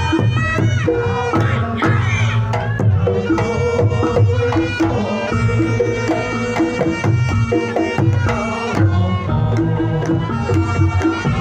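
Reog Ponorogo gamelan music: a slompret shawm plays a reedy melody over kendang hand-drum strokes and a fast repeating gong-chime pattern.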